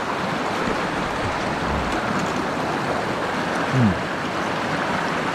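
Mountain stream water rushing steadily over rocks. A brief low vocal sound with a falling pitch comes about four seconds in.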